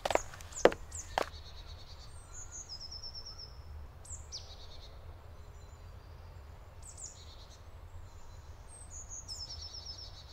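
Small woodland birds singing: short runs of high, rapid trilled notes and a few chirps, over a steady low rumble. Three sharp knocks sound in the first second or so.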